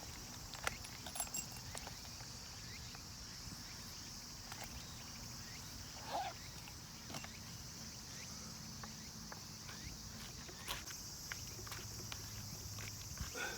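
Steady high-pitched insect chorus, with scattered light clicks and taps.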